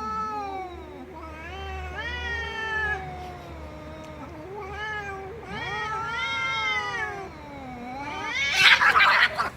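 A cat making a string of drawn-out, yowling meows that bend up and down in pitch, ending in a loud, harsh, noisy burst near the end.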